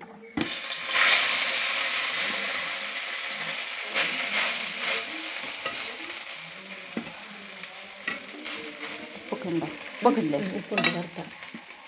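Food dropped into a pan of hot fat, sizzling suddenly and loudly, then slowly dying down while it is stirred, with a few clicks of a steel ladle against the pan.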